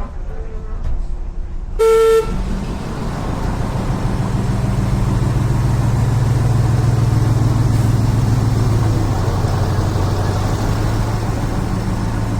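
Diesel train horn sounding one short blast about two seconds in, followed by the diesel engine running up, growing louder over several seconds and then running steadily.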